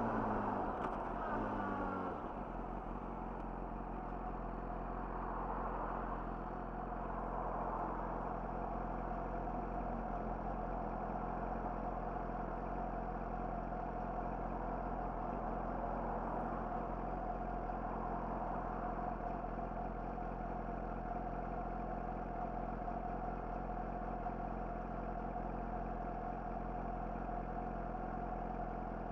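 Yamaha YZF-R6's inline-four engine with an Akrapovic slip-on exhaust, its revs dropping over the first two seconds as the bike slows, then idling steadily.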